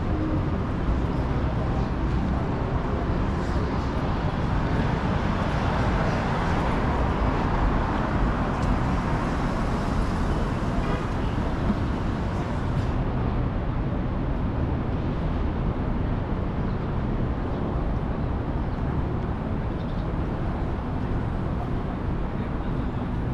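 City street traffic noise, steady, swelling in the middle.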